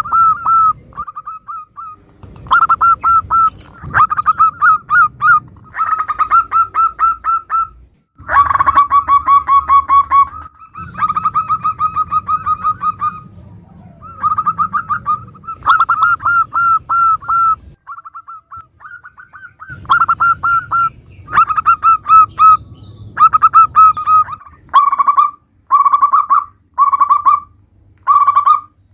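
Zebra doves (perkutut) cooing: loud, rhythmic series of stuttering coo phrases, one after another with short pauses. Several recordings are spliced together, so the voices and background change abruptly a few times.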